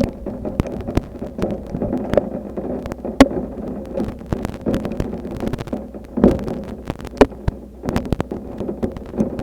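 Raindrops striking a surface close to the microphone as irregular sharp taps, over a steady low rumble of heavy rain. A few harder hits land about three, six and seven seconds in.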